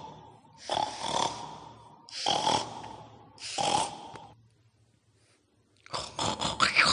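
Pig-like snorts, presented as the sound of a babi ngepet: three long noisy snorts about a second and a half apart, a pause of about a second and a half, then a quick run of rougher snorts near the end.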